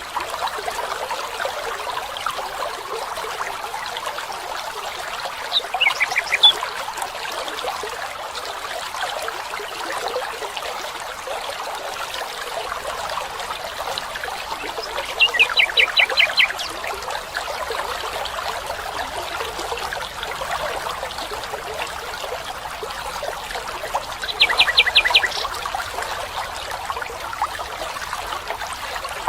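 Steady trickling of flowing water, with a bird's quick high trill of rapidly repeated notes heard three times: about 6 seconds in, around the middle, and near the end.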